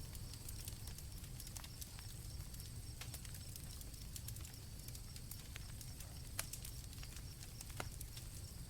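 Campfire crackling: scattered sharp pops over a low steady rumble, the loudest pops about six and a half and nearly eight seconds in, with crickets keeping up a faint steady high trill.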